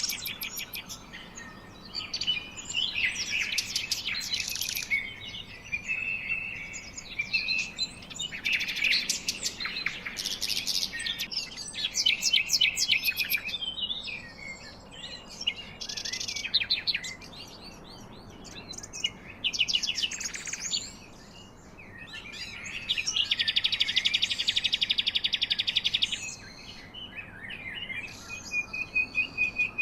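Birds chirping and singing in bursts of quick repeated notes, with a long, fast trill about three quarters of the way through.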